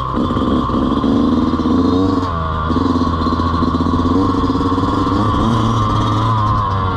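Dirt bike engine running under throttle, its pitch rising and falling as the rider works the throttle, with two brief drops in revs, one a little after two seconds and one near the end.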